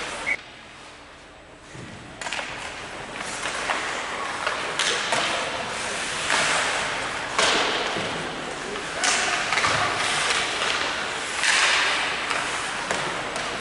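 Repeated thuds and sharp knocks over a steady background of noise in a large, echoing hall.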